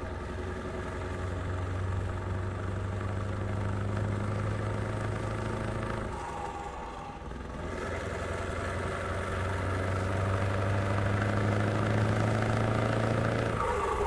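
Scania R620 truck's 16-litre V8 diesel running with a steady, deep engine note; about six seconds in the note drops away briefly, then comes back and holds.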